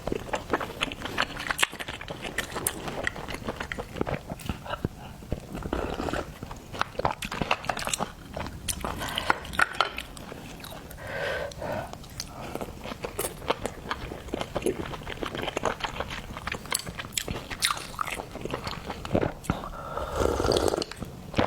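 A person chewing and biting seafood close to the microphone: many irregular wet clicks and smacks, with some crunching.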